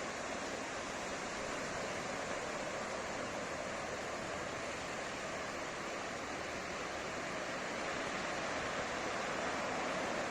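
Ocean surf on a beach: waves breaking and washing ashore, a steady rushing hiss that swells a little near the end.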